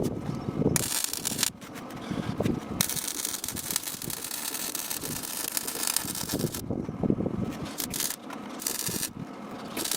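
MIG welder arc crackling in separate bursts on steel chassis repair sections, with one longer run of a few seconds and several short tacks near the end. Metal rattles and scrapes sound between the bursts.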